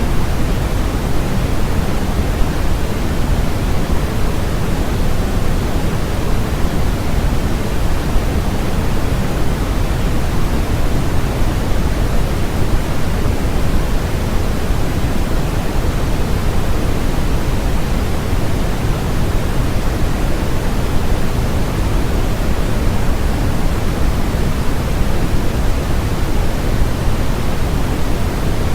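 Electronically generated noise, sold as white noise but weighted toward the low end like pink noise. It is a loud, even, unchanging hiss with no breaks or events.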